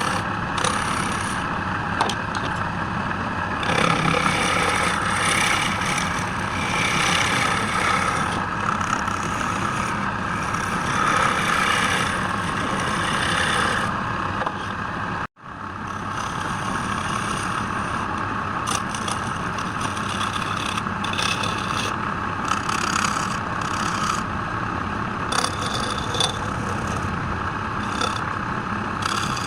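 Wood lathe running while a hand-held turning tool cuts and scrapes the spinning wood, with a steady motor hum under a changing scraping sound. The sound drops out briefly about halfway through.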